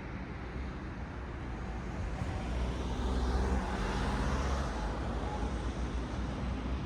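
A car passing on the road: its tyre noise swells to a peak about four seconds in and then eases off, over a steady low traffic rumble.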